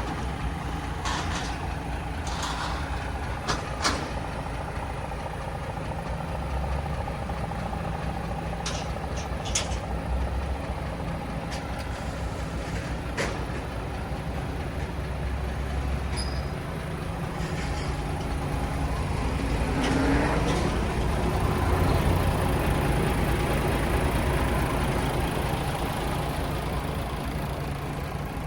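DAF XF480's PACCAR MX-13 straight-six diesel engine running at idle, with several sharp clicks and knocks in the first half. About twenty seconds in, the engine note rises and stays louder for a few seconds before settling back.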